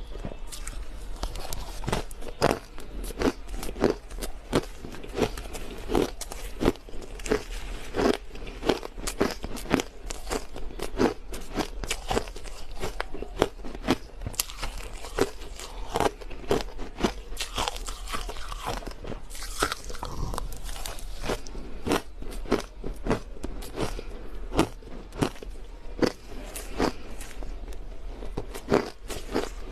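Crushed ice being bitten and chewed close to the microphone: a rapid, irregular run of loud crunches, several a second, with a low steady hum underneath.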